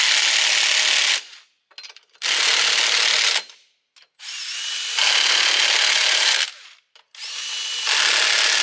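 A power driver spinning lug nuts onto a wheel hub, running in repeated bursts of one to two seconds with short pauses between.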